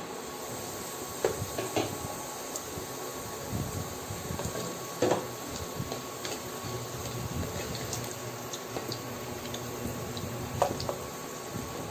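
Potato chunks sizzling steadily in oil in a stainless steel pot, with a few short knocks of the pot lid and a wooden spoon against the pot as the potatoes are stirred.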